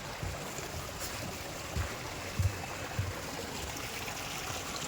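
Water of a stream flowing steadily, with a few low thumps near the middle.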